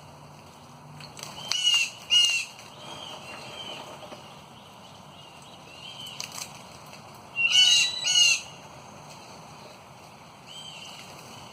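Birds calling: a pair of loud, short, high calls about two seconds in and another pair about eight seconds in, with fainter calls in between.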